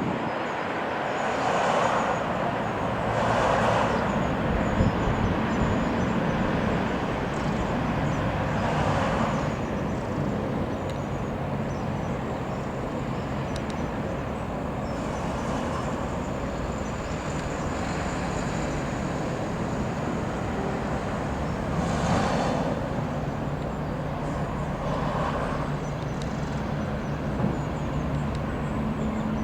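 Twin-turbine Eurocopter AS355 F2 Ecureuil 2 helicopter running steadily: a continuous rumble with a faint high turbine whine. Broad swells of noise come a couple of seconds in, around nine seconds in, and twice more near the end.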